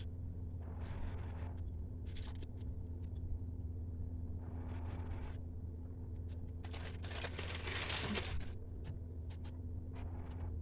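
Paper being handled, rustling and crinkling in several short bursts with small clicks, the longest and loudest about seven seconds in, over a steady low hum.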